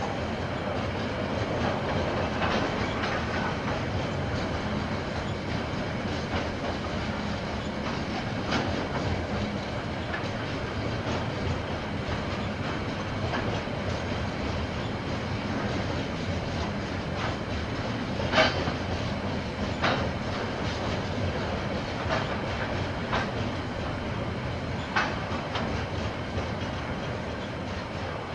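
A KiwiRail train rolling past on the line: a steady rumble of wagons on the rails, with irregular sharp clacks of wheels over the track, the loudest about two-thirds of the way through.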